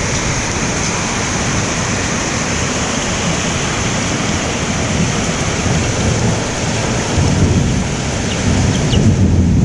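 Heavy rain falling steadily, with a low rumble that swells about seven seconds in and again near the end.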